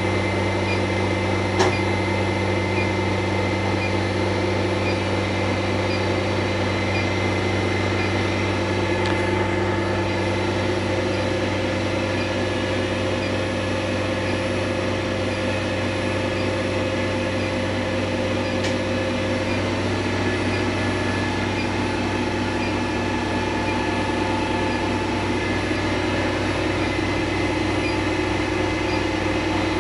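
Machinery running steadily: a strong low hum with several steady whining tones above it, unchanging throughout. There is a single sharp click about two seconds in and another past the middle.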